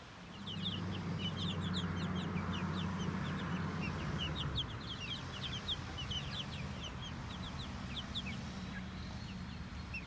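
A flock of 8-week-old chickens peeping and chirping, many short falling chirps overlapping throughout. A low steady hum comes in about half a second in and is loudest over the next few seconds.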